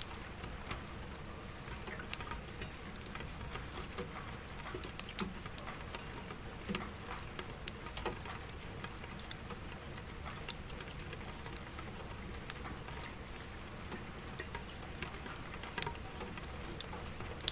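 Rain pattering steadily, with irregular single drops ticking sharply on a surface.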